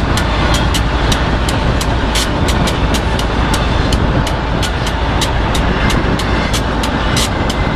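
Double-stack intermodal freight train passing at speed: a loud, steady rush of wheels on rail with sharp clicks repeating about four times a second.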